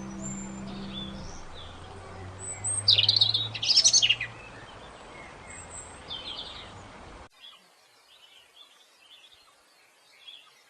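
Small birds chirping and twittering, with a loud burst of rapid chirps about three seconds in; after about seven seconds the sound drops abruptly to fainter, scattered chirps. A faint low held music tone fades out in the first second or so.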